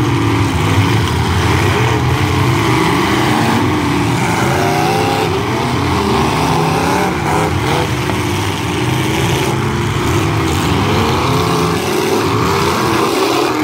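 Demolition-derby truck engines running hard, several engines revving up and down at once.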